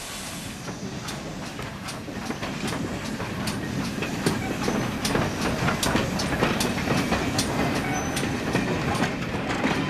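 GWR pannier tank 9600 and its coaches rolling slowly past, the wheels clicking over rail joints and pointwork with a low rumble, growing louder as the train comes by. A steam hiss cuts off about half a second in.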